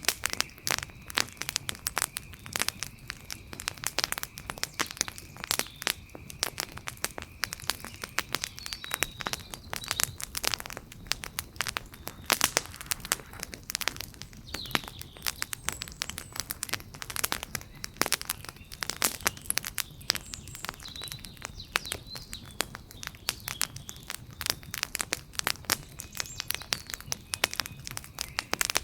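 Wood fire crackling and popping continuously, with dense irregular sharp snaps. Faint high chirps come through now and then.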